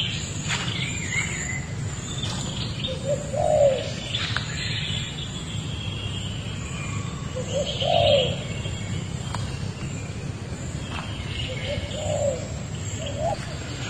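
Birds calling in woodland: a low, rise-and-fall call repeated about every four seconds, with higher chirps in between, over a steady low hum.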